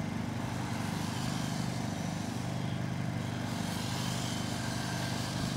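Several electric radio-controlled trucks running laps together: a steady mix of motor whine and tyre noise with no single standout event.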